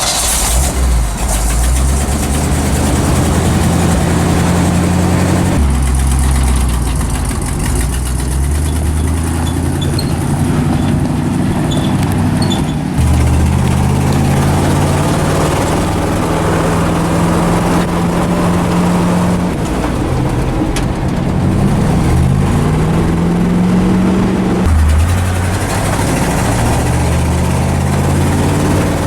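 Old dump truck's engine pulling on the road, its pitch rising through each gear and dropping at the gear changes, about three times.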